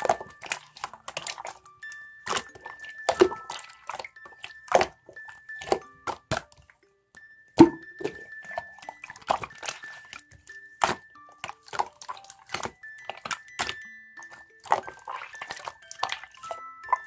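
Slime being squeezed and pressed by hand, giving irregular sharp clicks and pops.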